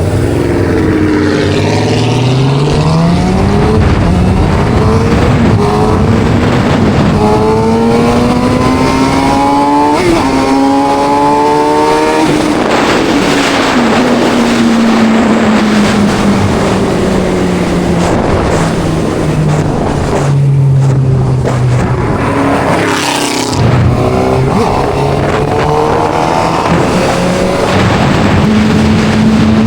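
Suzuki GSX-R600's inline-four engine under way with wind rush: its pitch climbs through the gears in the first dozen seconds, falls slowly as the bike slows through the middle, then rises again and holds steady near the end.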